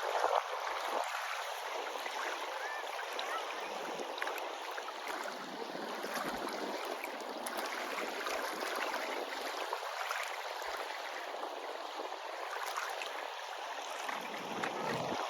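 Steady rush of moving water, with small splashes and ticks: sea water sloshing around people wading in.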